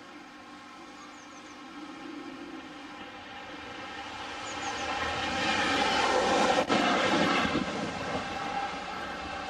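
Heavy diesel-hauled freight train approaching and passing, its noise swelling to loudest about six to seven seconds in and then easing off.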